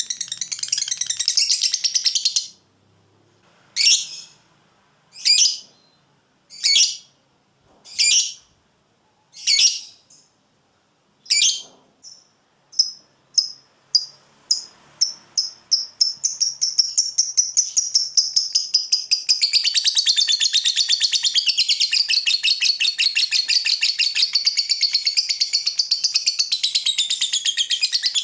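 Lovebird giving its long 'ngekek' song, a shrill rapid chattering trill. It breaks off about two seconds in, resumes as single calls about every second and a half, then speeds up from about twelve seconds in until it runs together into one long continuous chatter.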